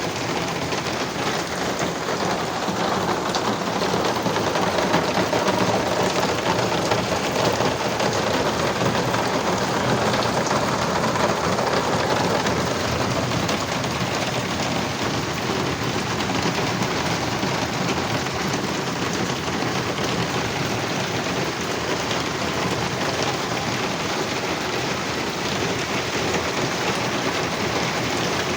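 Heavy rain pouring down steadily, an even, unbroken hiss of the downpour.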